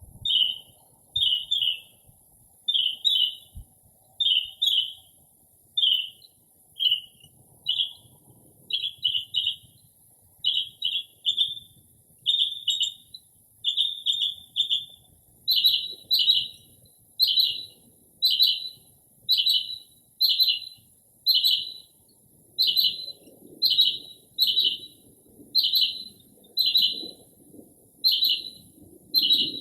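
Northern mockingbird singing, repeating one short chirp-like phrase over and over, about once a second. About halfway through the phrase turns louder and fuller.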